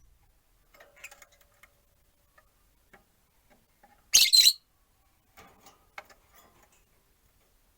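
Rosy-faced lovebird giving a short, loud burst of high-pitched chirps about four seconds in, with faint scattered chirps and clicks around it.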